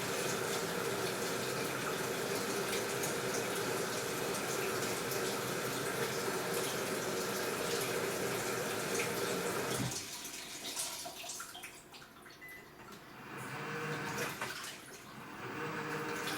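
AQUA washing machine taking in water, a steady rush of filling water that cuts off abruptly about ten seconds in. After that, quieter swishing of water in the tub rises and falls in slow swells.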